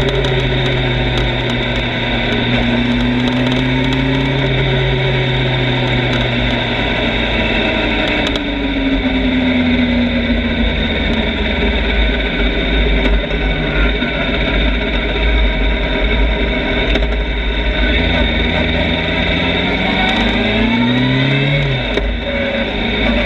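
Motorcycle engine running while riding, its revs rising and falling several times, under heavy wind rumble on the microphone.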